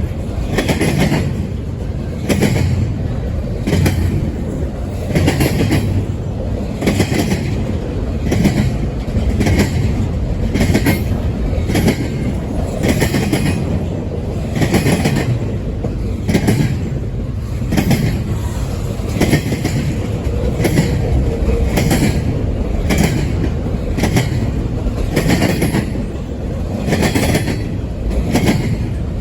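Double-stack container train rolling past, its wheels clicking over the rail joints in a steady, repeating rhythm over a constant rumble.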